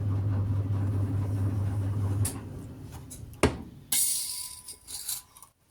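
Electric potter's wheel motor humming steadily, then switched off a little over two seconds in. About a second later comes a sharp knock, followed by a second or so of scraping.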